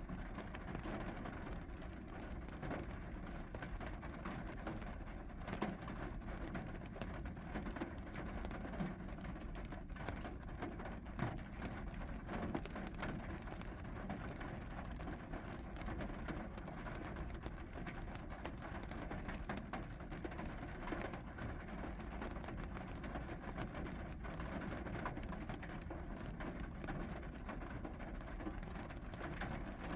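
Steady rain falling, with many individual drops ticking sharply on nearby surfaces over an even hiss.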